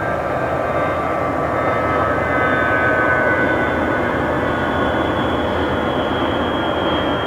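Aircraft engines running loud and steady as a plane passes, with a whining turbine tone that slowly falls in pitch over the noise.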